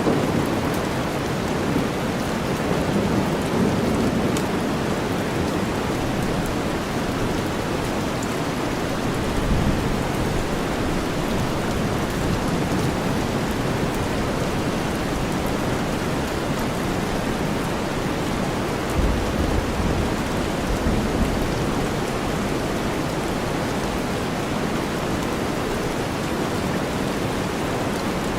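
Steady heavy rain blended with deep white noise, an even hiss. Low rumbles swell up about a third of the way in and again a little past two thirds.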